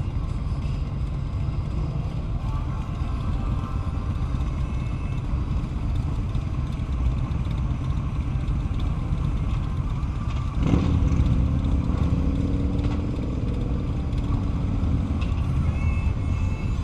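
Wind rushing over a helmet-mounted camera's microphone on a moving motorcycle, with the motorcycle running underneath. About eleven seconds in the noise swells louder and a tone slowly falls for a few seconds.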